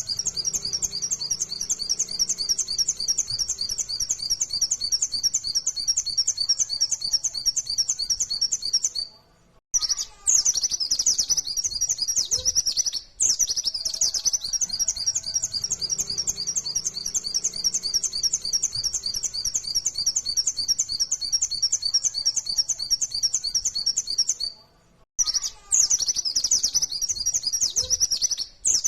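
Pleci (white-eye, Zosterops) singing a fast, unbroken run of high, rapid-fire chirping notes in the 'nembak' style. The song breaks off briefly twice, about ten seconds in and again near 25 seconds, then starts straight up again.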